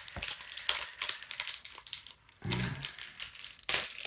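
Crinkling of a foil Pokémon booster-pack wrapper as the packs are handled, in irregular crackles with a louder one near the end and a short vocal sound about two and a half seconds in.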